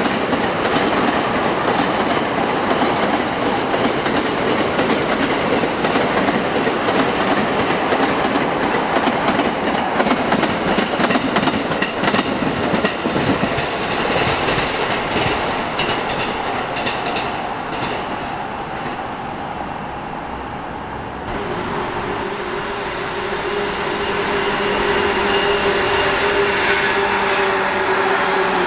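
Blue-and-cream-striped electric commuter train (E217 series) running past, wheels clattering over rail joints, the noise easing off about eighteen seconds in. From about twenty-one seconds a steady hum rises as another train comes in.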